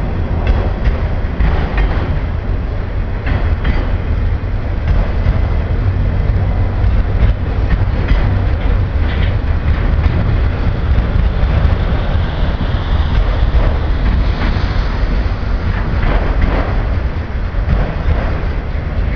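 Autorack freight train rolling past: a steady heavy rumble, with the wheels clicking over rail joints again and again.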